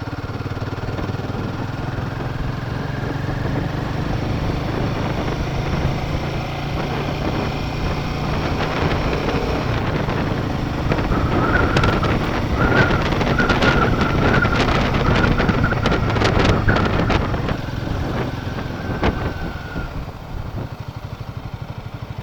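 Royal Enfield Himalayan 450 motorcycle's single-cylinder engine running at a steady cruising pace. In the second half a high steady tone and a run of sharp clicks join it, and the engine eases off near the end.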